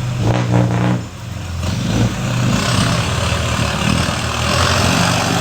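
Heavy vehicle engine running steadily, with a brief drop about a second in; a hissing noise joins about halfway through.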